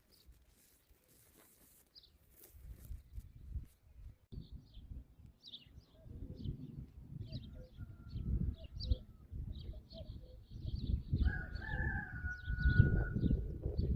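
A rooster crowing once, a long call of about two and a half seconds in the last few seconds, over repeated short high chirps of small birds and a low rumble.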